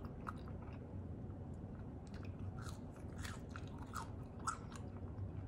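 Close-mic chewing of French fries: soft, irregular crunches and wet mouth clicks, sparse at first and more frequent from about halfway through.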